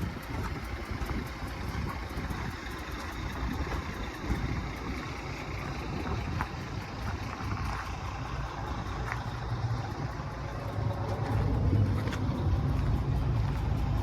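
A 2015 Ford F-350 Super Duty's 6.2-litre gasoline V8 running with a steady low hum, growing louder about three-quarters of the way through.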